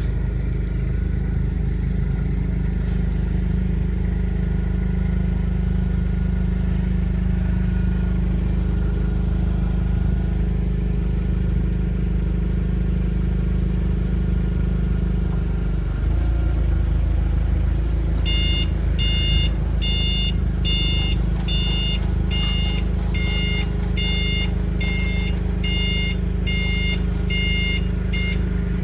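A diesel-type engine runs steadily with a low rumble. About two-thirds of the way in, a vehicle's reversing alarm starts beeping a bit over once a second and stops near the end.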